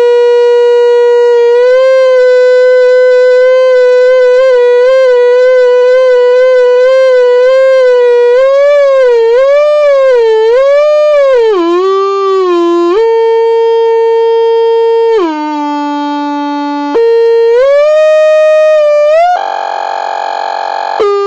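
A single loud, buzzy pitched tone, held steady at first, then wavering in wide wobbles and bending down, dropping to a lower pitch about two-thirds through before stepping back up. A short stretch of rough noise comes in near the end.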